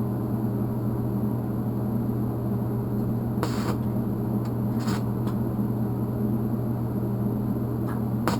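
Eastwood TIG 200 welder running during a TIG weld on thin sheet steel: a steady electrical hum with hiss, broken by a few short sharp clicks about three and a half and five seconds in and near the end.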